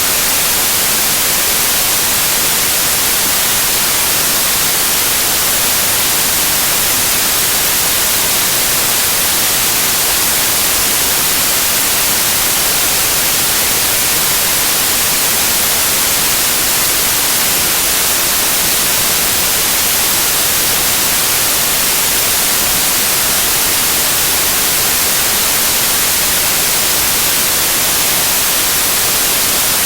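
Loud, steady white noise: an even hiss that does not change, strongest in the high range.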